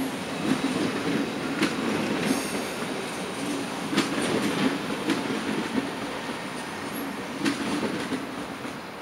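Deutsche Bahn ICE train rolling slowly through station trackwork: a steady rumble with sharp wheel clacks over rail joints and points, and a brief high wheel squeal near the end.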